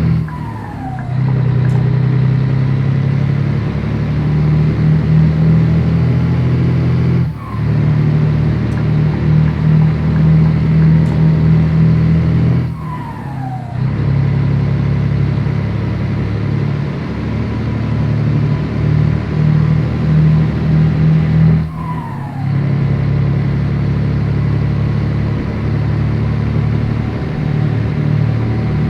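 Scania 113 truck's 11-litre straight-six diesel pulling through the gears. The engine note drops out briefly at each of several gear changes, and a short falling whistle comes with each drop.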